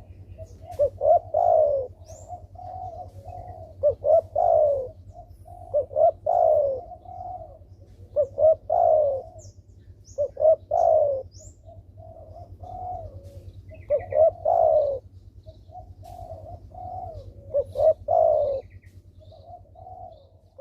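Spotted dove (derkuku) cooing in full song: a repeated phrase every two seconds or so, a few short notes then a louder falling coo. Faint chirps of small birds and a steady low hum sit underneath.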